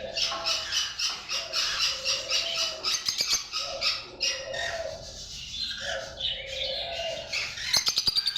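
A flock of lovebirds chattering in dense, rapid, high chirps, with a quick run of sharp clicks near the end.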